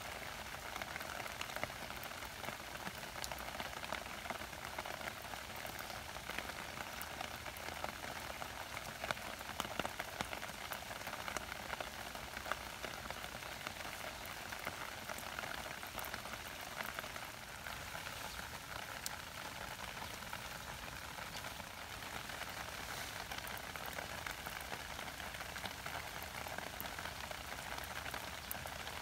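Rain falling on stones and plants: a steady hiss with many small clicks of single drops.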